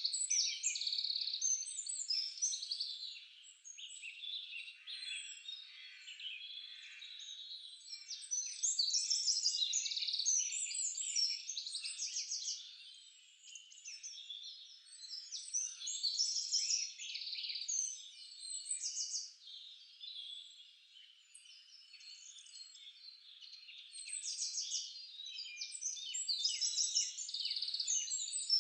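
Several songbirds singing and chirping at once: many overlapping high, quick chirps and trills that swell and fade in waves, loudest around ten seconds in, again near sixteen seconds and near the end.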